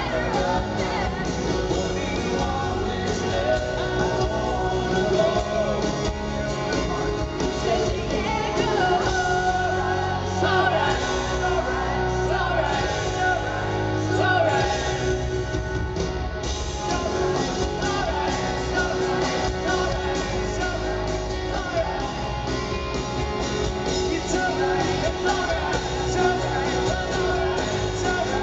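Live rock band playing with singing, echoing in a large arena hall.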